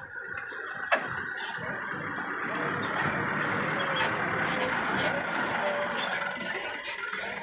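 Dump truck engine running under load, with a sharp knock about a second in.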